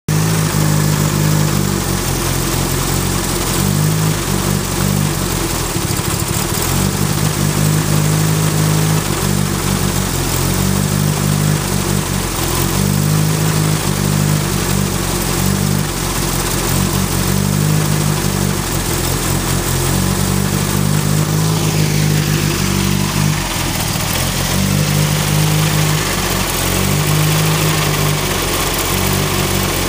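Turbocharged Ford Focus four-cylinder engine idling, its steady note breaking up unevenly every second or two. This is the rough idle and miss that remains after a new coil pack, which the owner suspects is the plug wires or the cylinder 2 fuel injector. About two-thirds of the way through, a whine falls in pitch.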